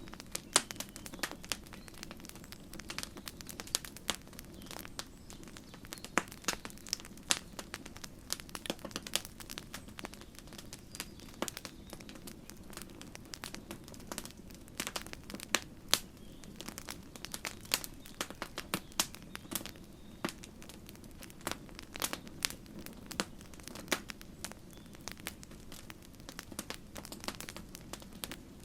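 Wood campfire crackling: many irregular sharp pops and snaps over a steady low hiss of the burning fire.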